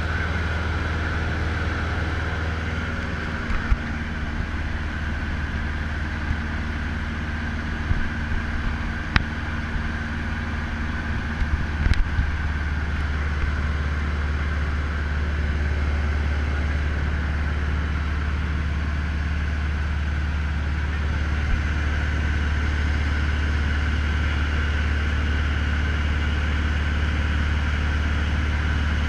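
Cessna 150L's Continental O-200 four-cylinder engine and propeller running steadily with a deep drone. A few short knocks come in the first half, and the drone grows slightly louder about halfway through.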